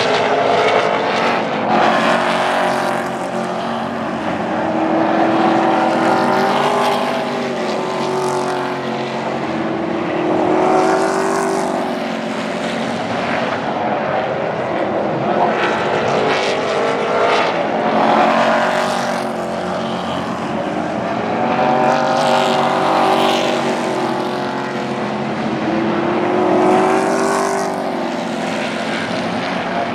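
Super Truck race trucks' engines running at speed around the oval, swelling and fading every few seconds as trucks pass, their pitch rising and falling.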